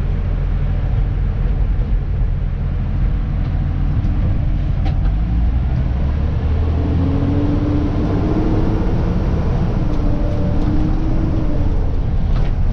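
Dennis Elite 2 refuse truck's diesel engine running steadily, heard from inside the cab. A steady whine joins in about halfway through for a few seconds.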